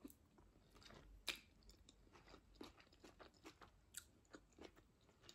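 Faint close-up chewing of a mouthful of tuna pasta salad, wet mouth sounds and small clicks throughout. A sharper click about four seconds in comes from the metal fork against the glass bowl.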